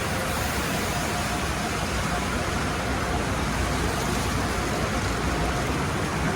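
Tunnel car wash equipment running with a steady rushing noise over a low rumble, with a faint steady hum throughout.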